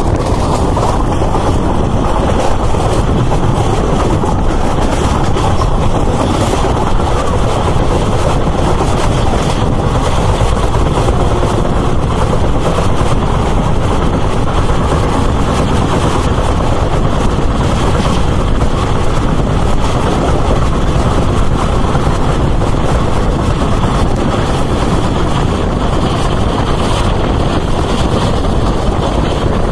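Passenger train running at speed, heard from an open coach window: a steady, loud rush of wheels on the rails and air streaming past the coach.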